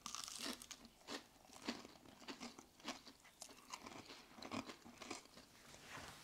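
Two people biting into and chewing crispy battered fish nuggets, the crunchy outer coating giving short, irregular crunches about every half second.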